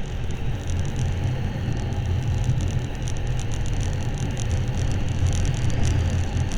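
Motorcycle underway, its engine and the wind making a steady low rumble.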